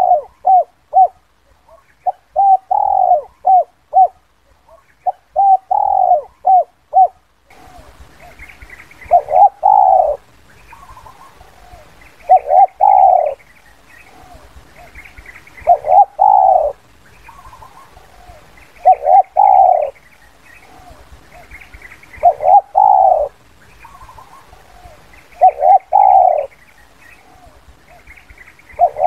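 Spotted doves cooing, the 'kuk 2' lure call used by dove trappers. At first come quick runs of short coo notes. About seven seconds in, the recording changes, and a multi-note coo phrase repeats about every three seconds over a faint background with high chirps from small birds.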